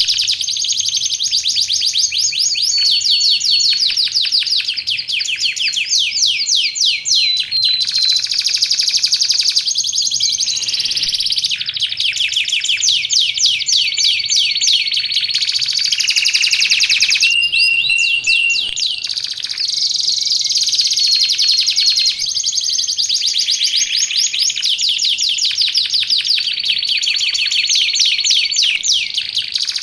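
Domestic canary singing a long, unbroken song of fast trills, rapid repeated chirps and short held whistles, high-pitched and loud.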